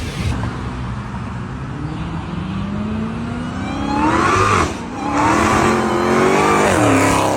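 Dodge Charger Hellcat's supercharged 6.2-litre HEMI V8, fitted with a carbon cold-air intake, accelerating hard with a rising supercharger whine. The pitch climbs, drops at a gear change partway through, then climbs again through the next gear.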